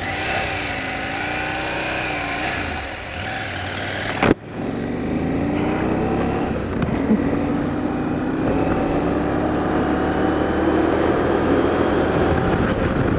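Motorcycle engine pulling away and accelerating, its pitch rising and falling through the gears. A sharp knock comes about four seconds in, and then the engine pitch climbs steadily as the bike gathers speed.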